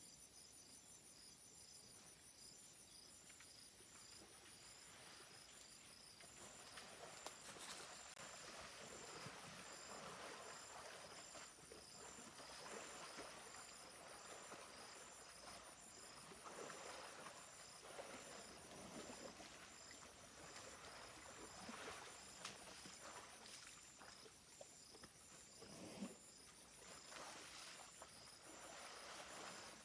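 A faint chorus of insects chirping in steady, evenly repeating high-pitched pulses. From a few seconds in, soft irregular rustling and scuffing sounds join it, with a sharp click or knock a couple of times.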